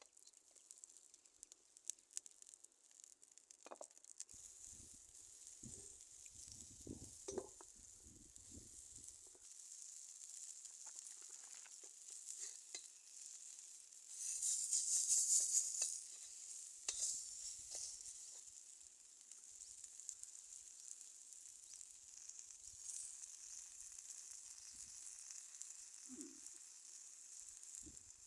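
Food sizzling as it fries in a pan over a campfire: a steady hiss with scattered crackles, swelling louder about halfway through, and a few low knocks in the first third.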